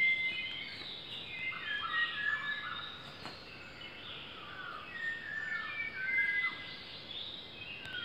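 Dawn chorus of several birds singing at once: overlapping clear whistled notes and short chirps, some sliding down or up in pitch.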